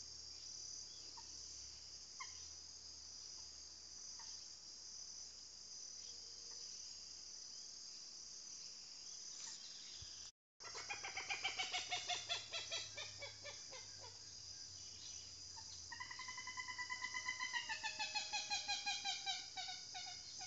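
Steady high-pitched insect drone from crickets. About ten seconds in the sound cuts out for a moment, then a bird calls in two long runs of rapid notes; the second run holds its pitch, then falls.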